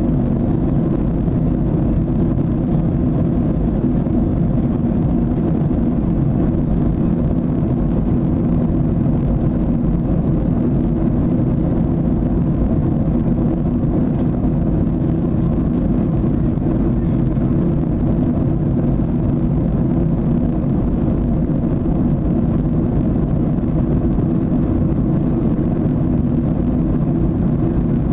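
Boeing 737 jet engine and airflow noise heard inside the cabin in flight: a steady low rumble with faint even hum tones that does not change.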